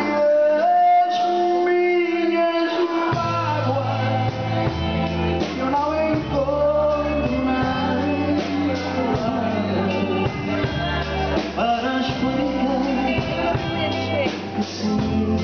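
Band music between sung lines: a held lead melody over guitar and drums, with the bass coming in about three seconds in.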